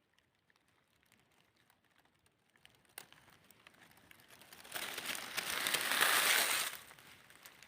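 Faint scattered crackles, then a crinkling rustle that swells to a loud hiss for about two seconds past the middle and fades.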